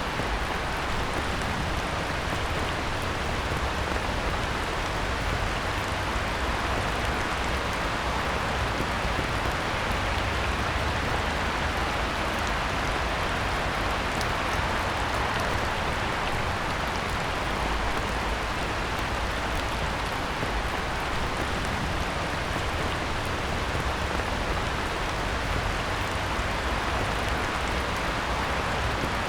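Heavy rain falling steadily on a pond, an even hiss that does not change.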